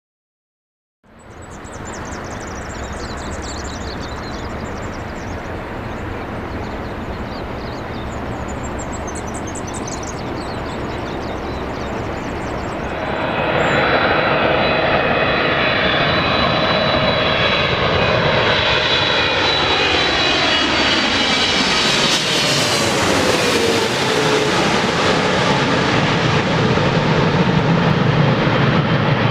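Large jet airliner on approach to land, its engine noise growing louder about halfway through, with a high whine whose pitch falls as it passes overhead about three quarters of the way in.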